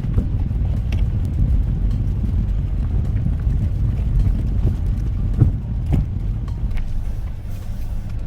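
Car driving, a steady low rumble of engine and road with a few sharp knocks, the loudest about five and a half seconds in.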